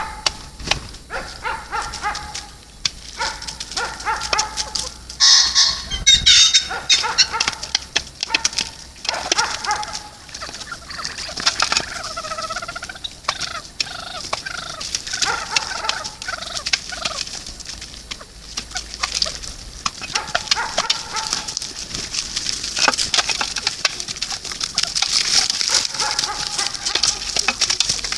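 Fowl calling over and over, many short pitched calls in a row, over a steady high hiss.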